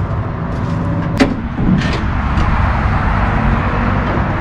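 A motor vehicle engine running steadily with a low rumble, with a sharp click about a second in and a growing rushing noise later on.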